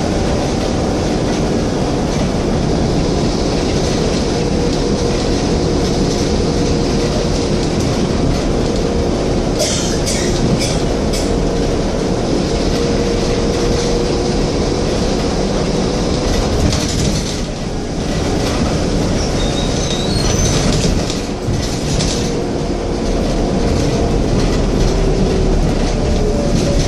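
Scania N230UD double-decker bus running along the road: steady engine and road noise with a faint whine, and brief rattles about ten seconds in and again a little past halfway.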